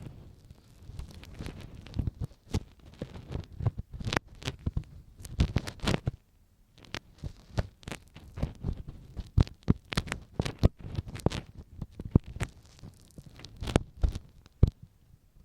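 Ear pick scraping and scratching inside an ear microphone for ASMR ear cleaning, making irregular close crackles and sharp clicks, with a brief lull about six seconds in.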